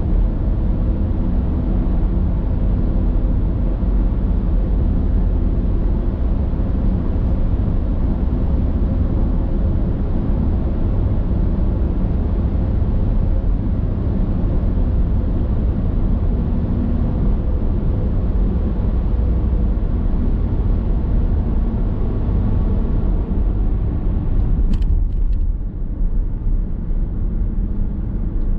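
Car driving on a road, heard from inside the cabin: a steady low rumble of tyre and engine noise. A few sharp clicks sound about 25 seconds in, after which the noise is a little quieter.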